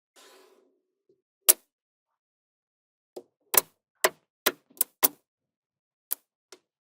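Small magnetic balls clicking as they snap together, in about nine sharp separate clicks. Most come in a quick run in the middle, with a soft rustle near the start.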